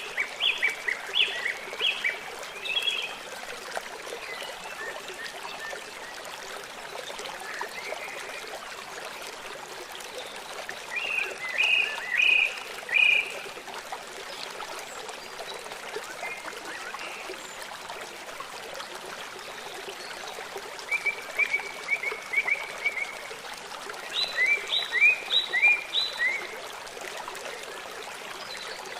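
A river or stream flowing steadily, with birds singing over it in short bursts of quick, high, falling notes: one burst at the start, one about eleven seconds in, and a longer run from about twenty-one to twenty-six seconds.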